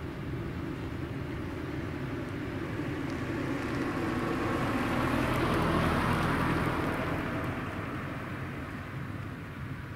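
A vehicle passing by, growing louder to a peak a little past the middle, then fading away.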